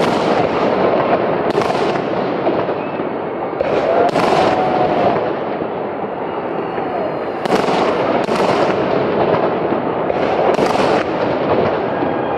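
Large aerial fireworks display: a steady crackling din, broken by sharp bangs about every second or few seconds as shells burst.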